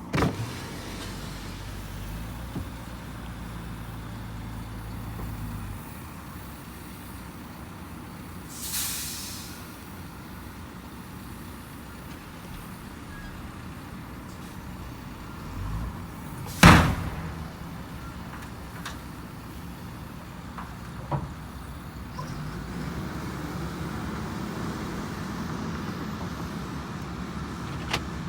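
Dump truck engine running, with a short air hiss about nine seconds in and a single loud sharp burst of air or a bang about seventeen seconds in.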